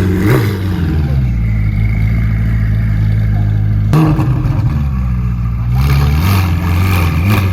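A supercar engine idling, blipped in short revs that rise and fall quickly: once about half a second in and twice near the end. About four seconds in there is a sharp pop.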